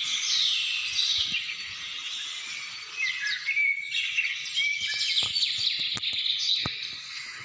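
A chorus of many small birds chirping and singing at once, with dense overlapping quick notes. A few sharp clicks come between about five and seven seconds in.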